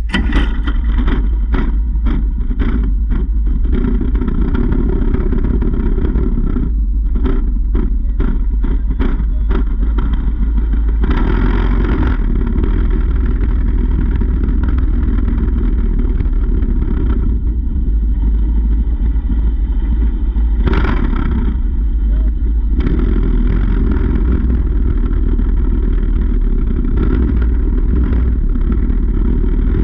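Mini bike engine running under way, heavily buffeted by wind on the camera's microphone, with a loud steady low rumble throughout.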